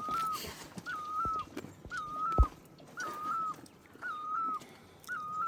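An animal's high whistle-like call, about half a second long and held at one pitch, repeated very regularly about once a second, with a couple of low thumps.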